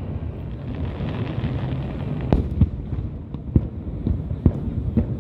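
Aerial fireworks display bursting: a continuous low rumble of shells with sharp cracks and booms at uneven intervals. The loudest crack comes a little under halfway through.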